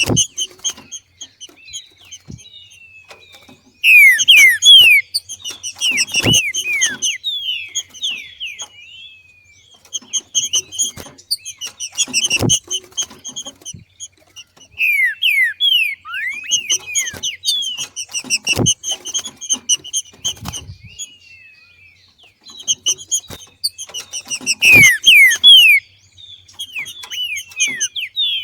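Green-winged saltator (trinca-ferro) giving its macheado, the call of a bird coming into breeding condition. It comes in several bouts of fast, repeated high chattering notes mixed with sharp downward-slurred whistles, with short pauses between the bouts.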